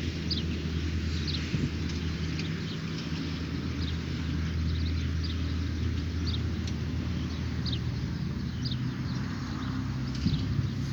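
Birds calling with many short, falling chirps over a steady low rumble, such as that of a distant engine.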